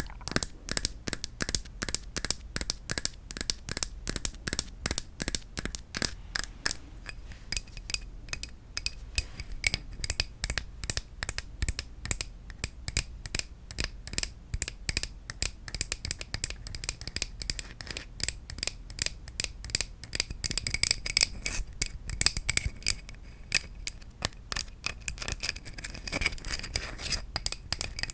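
Wooden objects being tapped in a quick, steady train of crisp clicks, several a second. In the later part a faint ringing tone runs under the taps.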